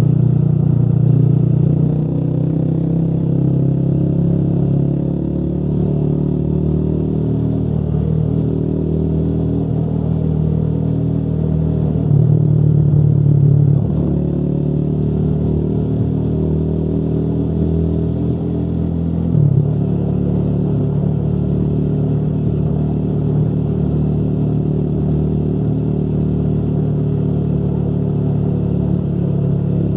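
Motorcycle engine running under way, its note drifting slowly up and down with the throttle. It swells briefly about twelve seconds in and changes note suddenly near twenty seconds.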